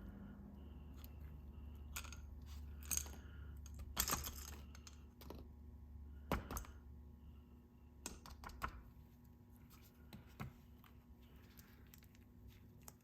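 Irregular sharp clicks, clinks and rustles of a Canik SFX Rival pistol and its accessories being handled, with the loudest knocks about three, four and six and a half seconds in, over a low steady hum.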